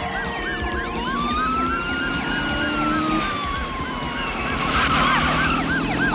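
Police sirens sounding together. One yelps in quick rising-and-falling cycles, about three a second. Another wails, rising about a second in and then slowly falling, over a low steady rumble of vehicles.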